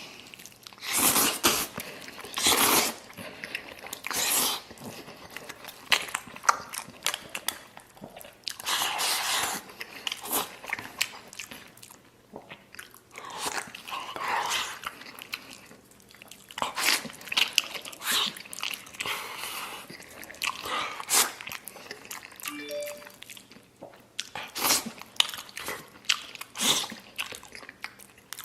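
Close-miked chewing and biting of a large mouthful of maocai, with crunches and wet mouth sounds coming in irregular clusters.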